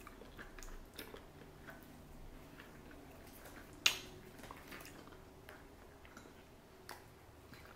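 Faint chewing of sushi, with scattered light clicks of wooden chopsticks against plastic takeout trays. One sharper click comes about four seconds in.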